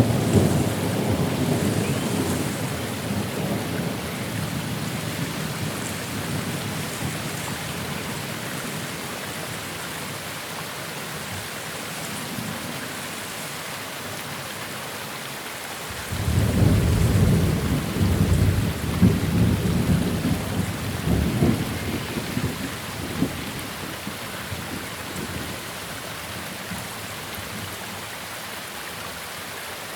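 Steady rain with two rolls of thunder: one dying away over the first few seconds, and a second that breaks in suddenly about halfway through and rumbles on for several seconds before fading.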